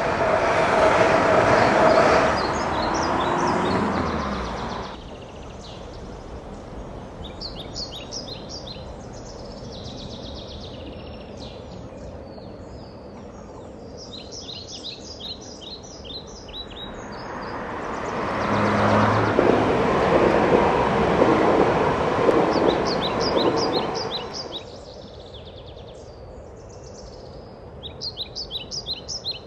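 A passenger train rushing past on the track, loud for the first few seconds and then falling away. Small songbirds chirp in short repeated phrases through the quieter stretches, and about 17 seconds in a second loud rushing noise swells up and dies away again near 24 seconds.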